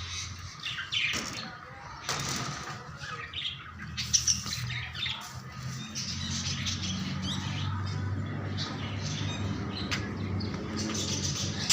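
Birds chirping and squawking in short calls, with a low steady hum coming in about halfway through.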